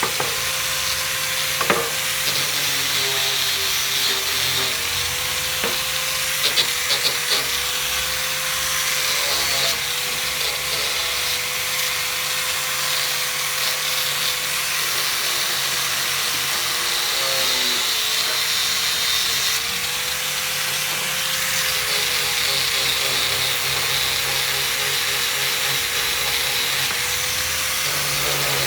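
Electric grinder scrubbing rust off an amplifier's metal casing: a steady motor whine that dips in pitch now and then as it bears on the metal, over a harsh rasping hiss, with a few short knocks.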